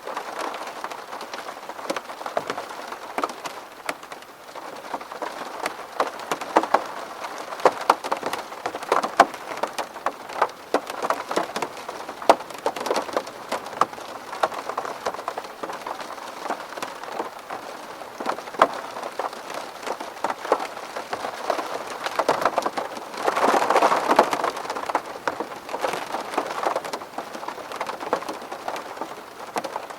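Steady rain pattering on a window pane, many separate drops tapping against the glass over a constant hiss, with a heavier burst of rain about three-quarters of the way through.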